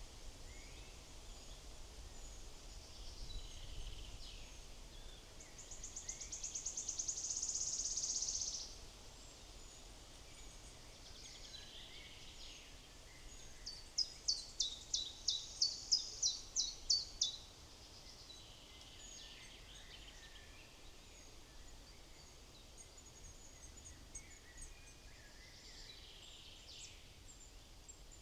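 Woodland songbirds singing: a fast, high trill that grows louder, about six seconds in, and about a dozen quick, clear notes each falling in pitch, around the middle, with scattered faint chirps throughout.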